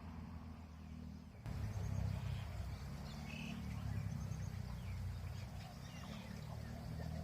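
Small birds chirping in short, scattered calls over a steady low rumble; the sound changes abruptly about a second and a half in, after which the chirps begin.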